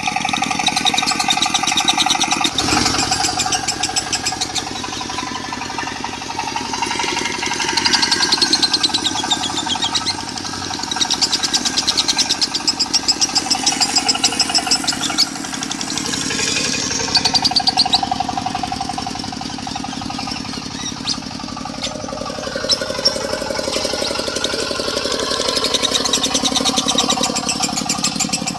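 A diesel engine running with a fast, even knock, mixed with lovebirds' long, rattling trills that come and go over it.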